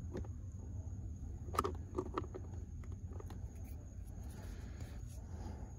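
A few faint clicks and taps of hand-work on plastic trim with a small tool, over a steady low rumble.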